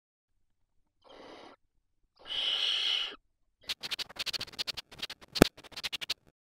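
Barn owl hissing twice inside the nest box, first faintly and then louder, as a harsh breathy hiss. This is followed by a rapid, irregular run of sharp clicks and scratches, with one louder knock near the end.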